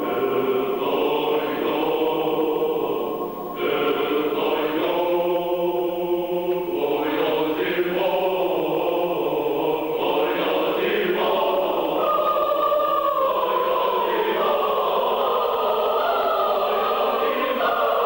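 A mixed a cappella choir singing sustained chords, changing harmony several times, with a brief dip in loudness about three and a half seconds in.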